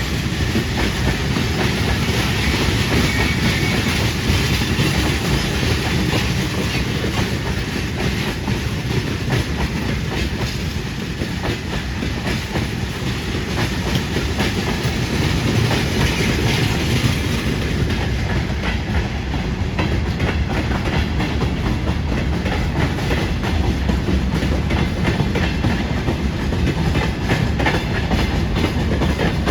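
Freight train rolling past steadily, its wagon wheels clattering over the rail joints in a continuous run of clicks, which grows busier about two-thirds of the way through.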